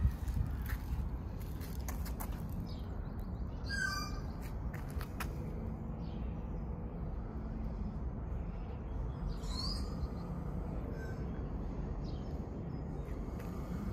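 Birds calling: a short call about four seconds in and another, rising call around ten seconds, with a few fainter calls between, over a steady low rumble.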